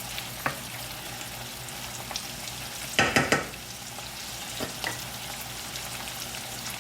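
Garlic, sun-dried tomatoes, olives and artichokes sizzling steadily in butter and olive oil in a pan. A short burst of stirring against the pan comes about three seconds in, with a few light clicks.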